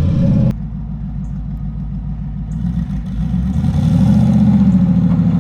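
Twin-turbo Camaro's engine running as the car is driven at low speed on a light throttle, with a sudden drop in level about half a second in. From about three and a half seconds in the engine pulls harder and gets louder.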